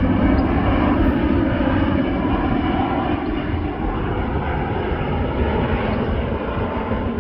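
Airplane engines running loud as an aircraft passes, a dense rumbling noise that slowly fades.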